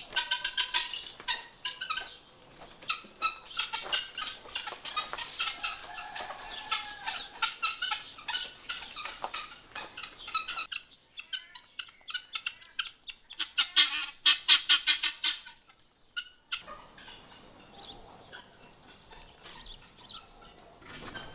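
Domestic poultry calling: repeated short squawks and clucks, with a fast, rattling gobble-like run about fourteen seconds in.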